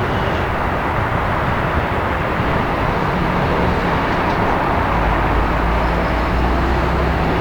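City traffic ambience: a dense, steady rumble of street traffic, with a low engine hum that grows stronger a little over halfway through.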